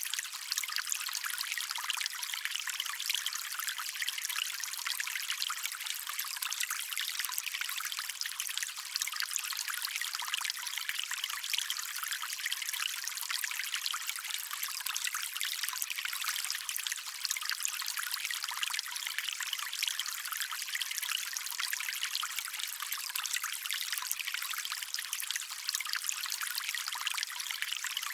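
Shallow stream water trickling and running steadily, a constant bright splashing hiss with no low rumble.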